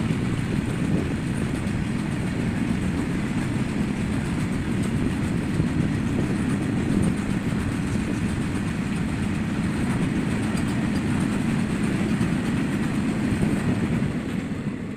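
Indian Railways goods train of open-top freight wagons rolling past at close range: steady rumble of steel wheels on the rails. The noise eases off near the end as the brake van at the tail of the train goes by.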